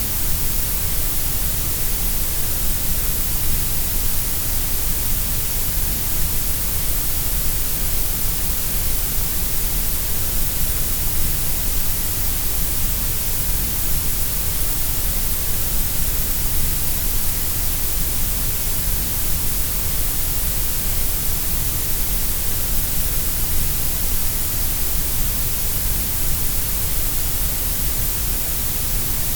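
Grey noise: a steady, even hiss shaped to sound equally loud at every pitch, with no changes.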